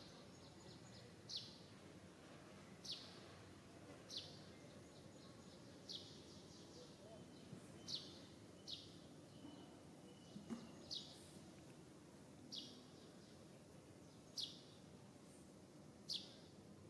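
A bird repeating a short, high, falling chirp about every one and a half seconds, over a faint steady outdoor background noise.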